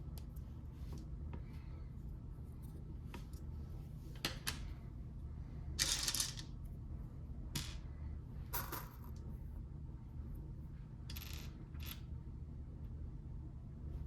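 Plastic Lego pieces being handled and pressed together: scattered sharp clicks and several short rattling scrapes, the loudest about halfway through.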